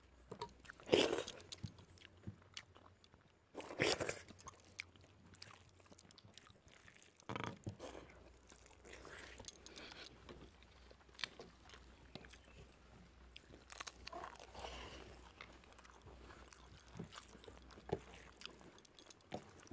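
Two people eating rice and curry with their fingers: quiet, scattered chewing and mouth sounds, a little louder about a second, four seconds and seven and a half seconds in.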